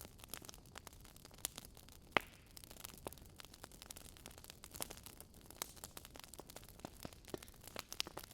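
Wood fire burning in a fireplace: irregular crackles and pops over a low hiss, with one sharper pop about two seconds in.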